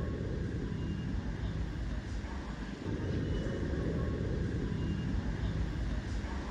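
Steady low rumble of vehicle noise that swells and eases over a few seconds.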